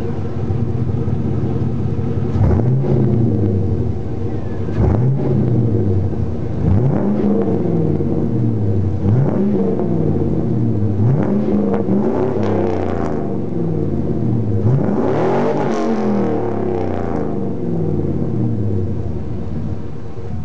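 2000 GMC Sierra 2500's 6.0-litre Vortec V8, running through a Dynomax muffler, being revved in repeated throttle blips about every two seconds, each rising and falling back to idle, then settling to a steady idle near the end.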